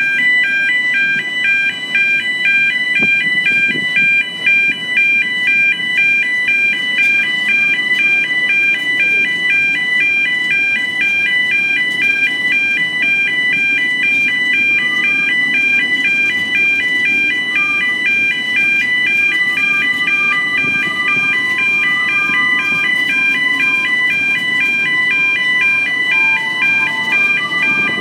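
Level crossing alarm sounding without a break as a fast, even two-tone warble, over the low rumble of a narrow-gauge Welsh Highland Railway train passing the crossing.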